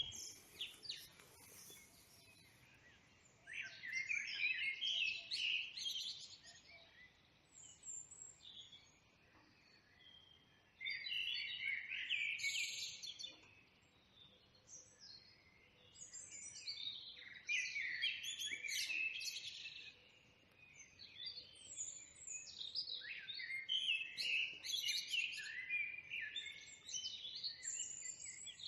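Songbirds chirping and singing in bursts of quick high notes, with quieter pauses of a second or so between the bursts.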